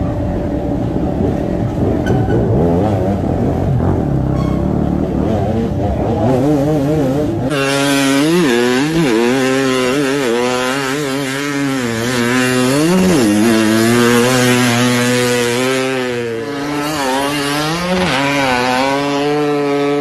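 Motorcycle engine sounds: a low engine rumble for the first several seconds, then, with an abrupt change about a third of the way in, a loud revving engine whose pitch rises and falls repeatedly as the throttle is worked.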